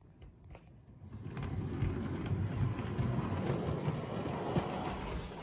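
G scale Bachmann Thomas model locomotive running along the track, a steady low rumble of motor and wheels with scattered clicks, growing louder about a second in.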